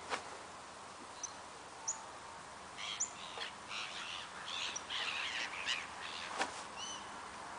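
Birds calling over a lake, with a few single chirps and a burst of harsh, chattering calls in the middle. Two sharp clicks sound, one at the start and a louder one near the end.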